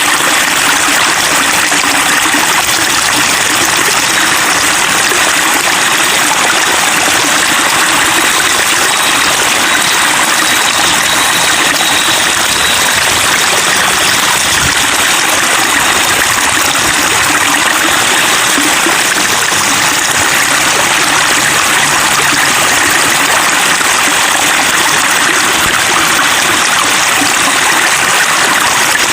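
Running water babbling and trickling steadily, as of a small stream flowing over stones.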